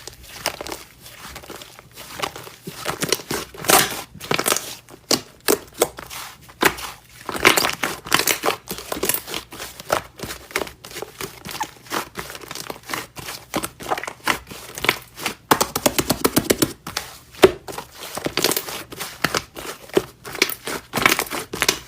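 Slime being squeezed and poked by hand: a dense run of sticky clicks, pops and crackles, with a quick rapid series of pops about two-thirds of the way through.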